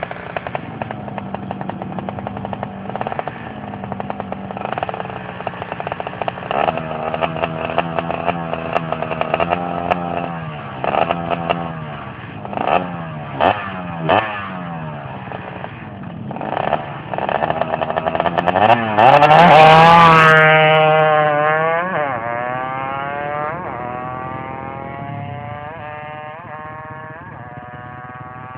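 Tuned two-stroke drag-racing motorcycle engine being test-revved: an uneven idle with several short throttle blips around the middle, then one hard rev to its loudest about two-thirds through, the pitch falling slowly over several seconds as it settles back to idle.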